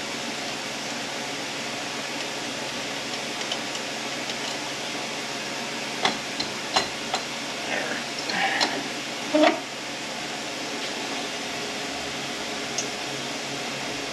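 A steady shop-fan hum runs underneath. From about six to nine and a half seconds in, there is a short run of sharp metal clinks and scrapes as a tool is handled against a Ford 10R80 transmission, with the loudest knock at the end of the run.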